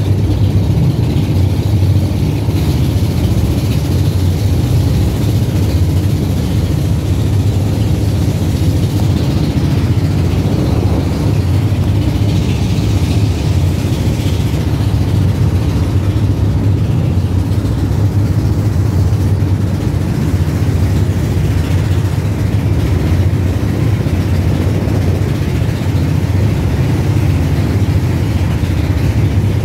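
A boat's engine running steadily under way, a low drone, with rushing wind and water noise over it as the boat rides through strong waves.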